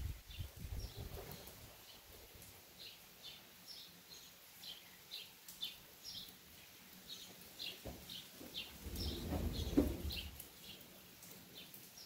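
A bird chirping over and over, about two short high calls a second. A low rumble dies away in the first second, and another swells and fades about nine seconds in.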